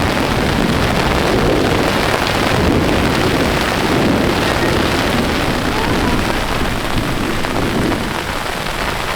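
Hail and heavy rain pelting down in a thunderstorm, a dense, steady hiss of stones and drops hitting the ground and gear; the hailstones are about the size of BBs.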